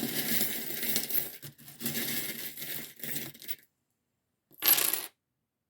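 A handful of small divination charms rattling and clinking together as they are shaken for about three and a half seconds. A pause follows, then one short, loud clatter as they are thrown down.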